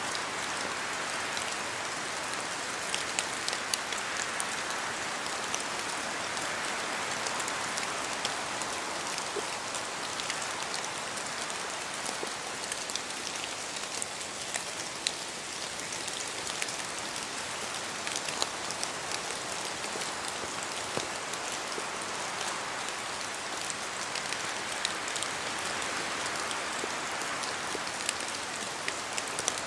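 Steady rain falling in a forest, a continuous hiss that slowly swells and eases, with many separate drops from the trees ticking sharply close by throughout.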